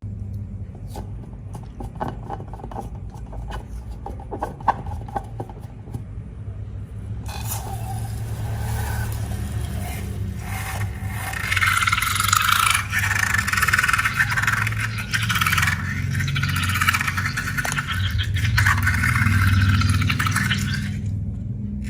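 Close-up handling noises of slime and rubber balloons: light clicks and ticks at first, then from about seven seconds a dense, louder scraping and crinkling, all over a steady low hum.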